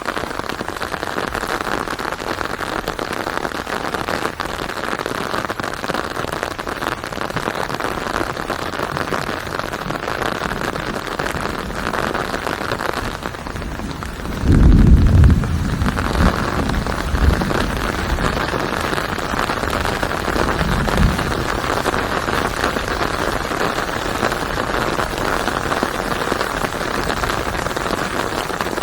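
Steady, heavy rainfall hissing and pattering. About halfway through, a low rumble of thunder rises and fades over a second or two, followed by a couple of fainter low rumbles.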